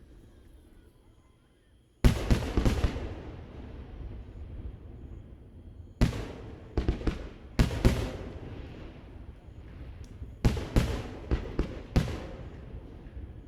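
Aerial fireworks shells bursting across the harbour: after a couple of quiet seconds comes one big boom, then clusters of sharp bangs, each trailing off in a long rolling echo.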